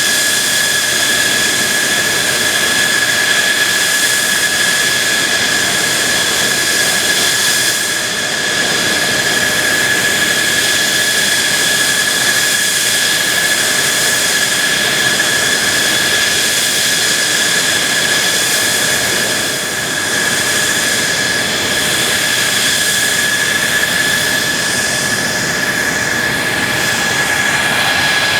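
Mitsubishi F-2B fighter's jet engine running steadily, with a loud rush and a constant high whine whose pitch does not change.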